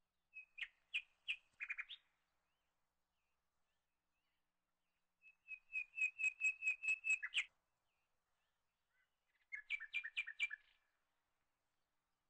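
A bird chirping in three bursts of quick repeated high notes, each lasting one to two seconds, the middle burst the longest.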